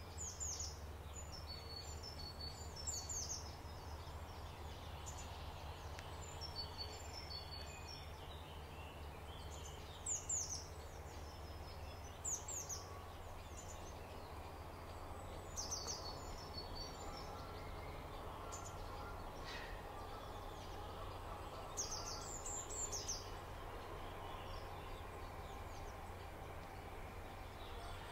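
Field recording of a small bird calling in short high-pitched phrases every few seconds, over a steady low background rumble.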